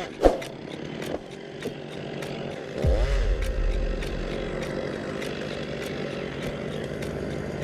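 An engine running steadily, with a sharp knock just after the start; it grows louder and deeper about three seconds in.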